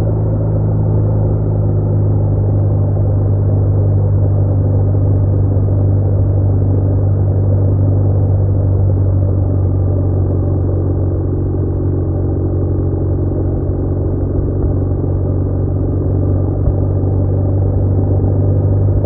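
BMW R1200R flat-twin engine running at a steady cruising speed, a constant low drone with road noise and no change in pitch.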